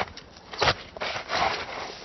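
Irregular scraping and knocking noises, with a sharp knock about two-thirds of a second in.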